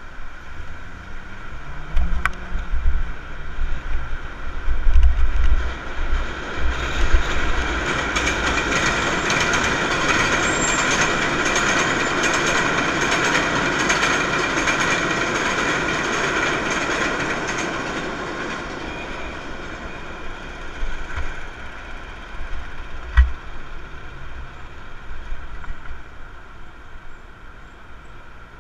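Elevated train passing on the steel el structure overhead: a rumble with a ringing metallic screech that builds from about seven seconds in, is loudest in the middle, and fades away by about nineteen seconds, over steady street traffic.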